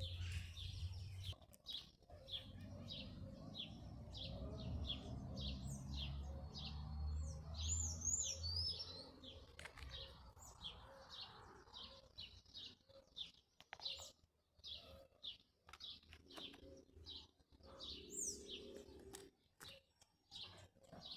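Small bird chirping a short high note over and over, about twice a second, with a few higher gliding whistles from another bird. A low rumble sits underneath for the first half.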